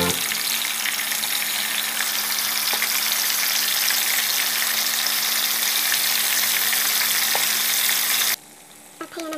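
Marinated chicken breast frying in hot oil in a pan: a loud, steady sizzle with small pops. The sizzle cuts off abruptly near the end.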